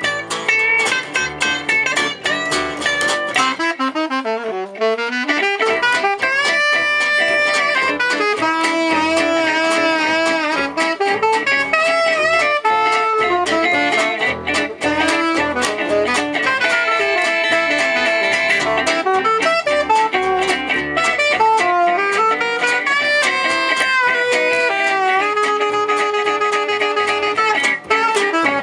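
Jazz manouche (gypsy jazz) band playing live and instrumental: plucked guitar accompaniment under a melodic lead line. The lead line slides down and back up in pitch a few seconds in.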